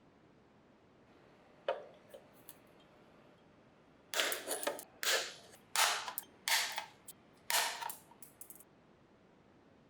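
A sharp click, then a quick run of about six short, hard bursts of noise, each starting suddenly and dying away within about half a second.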